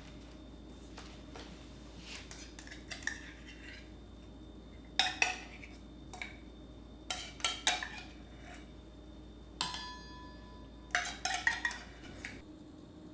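Dishes and cutlery clinking and knocking as they are handled and set down, in scattered clusters. One knock a little under ten seconds in rings on briefly.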